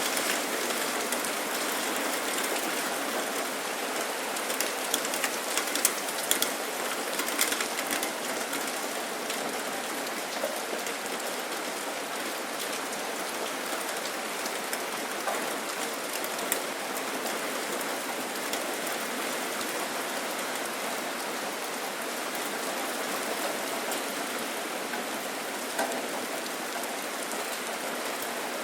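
Steady rain falling and pattering on surfaces, with scattered individual drips ticking sharply, more of them in the first few seconds.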